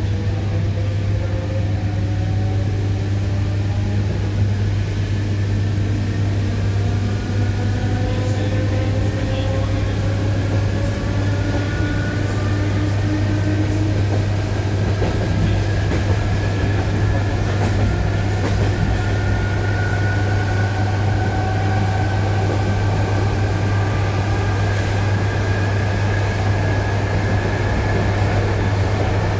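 ED9E electric train accelerating: the traction drive whines in several tones that rise steadily in pitch, over a constant low electrical hum.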